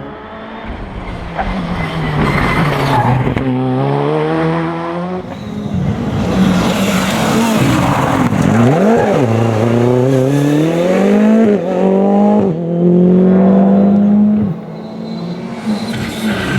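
Rally car engine revving hard as the car drives through the stage. Its pitch climbs and then drops sharply again and again as it changes gear, with a quick blip of the revs about nine seconds in.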